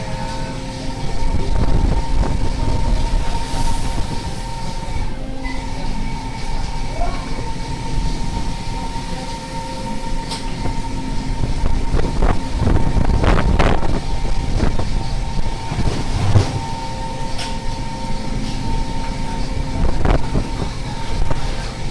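A fishing boat's machinery runs with a steady drone and a held hum, with irregular knocks and clatter over it, the thickest of them a little past halfway.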